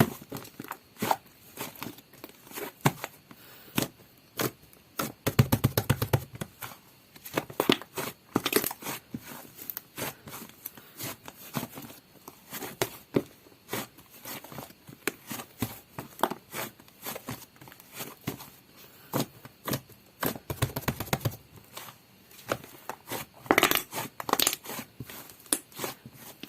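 A large, soft black butter slime being squished, stretched and pressed by hand, giving many quick sticky clicks and pops. Denser runs of clicking come about five seconds in and again about twenty-one seconds in.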